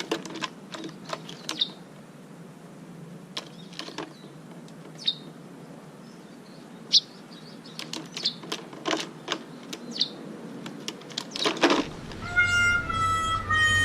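A bird's short, sharp chirps, irregularly spaced, mixed with scattered light taps and clicks. A tune with held notes comes in near the end.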